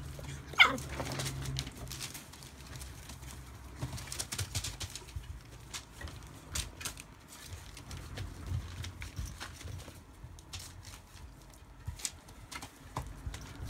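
Rough collie puppies: one sharp yelp falling steeply in pitch just under a second in, then scattered light clicks and pattering, like paws and claws scrabbling at play.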